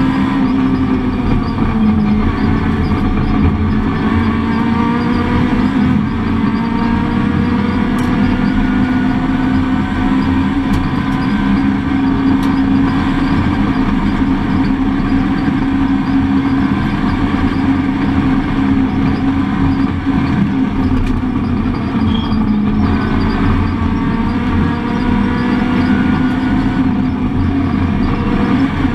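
Rally car's engine heard from inside the cockpit at stage pace, its note climbing and dropping again and again as it is driven up and down the gears, over steady road and tyre noise.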